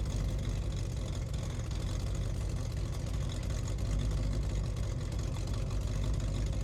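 A motor running steadily with a dense, low, rapidly pulsing noise.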